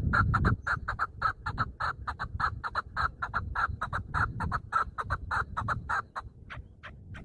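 Chukar partridge calling: a fast run of short clucking notes, about five a second, that grows fainter after about six seconds.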